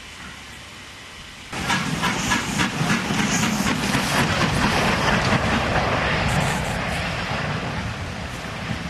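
A narrow-gauge steam train passing close by. It comes in suddenly about a second and a half in, with a rush of noise and quick clicks from the wheels, and eases off slightly near the end.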